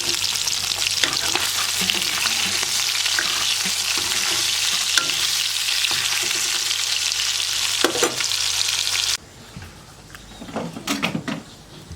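Spiced fish frying in hot oil in a pan: a steady sizzle with occasional clicks and scrapes of stirring. About nine seconds in, the sizzle cuts off suddenly and a few light knocks of utensils follow.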